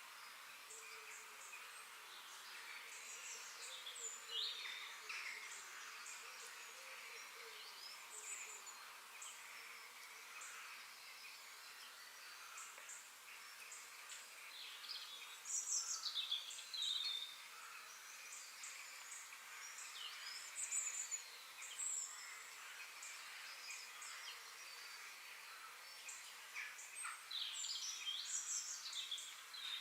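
Several wild birds chirping and calling in short sweeping notes over a steady high background hiss, busiest about halfway through and again near the end.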